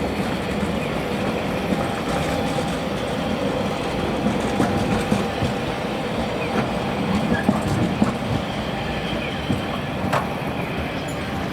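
Toyama Chiho Railway city tram running along street track: steady rolling noise from wheels on rail, with scattered knocks and clicks over the rail joints.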